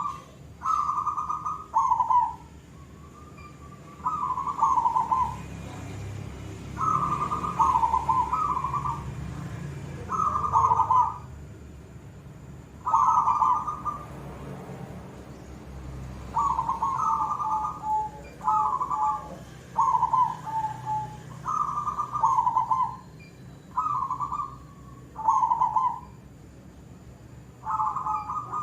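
Zebra dove (perkutut) cooing: repeated short phrases of two or three low, mellow notes, a new phrase every two to three seconds.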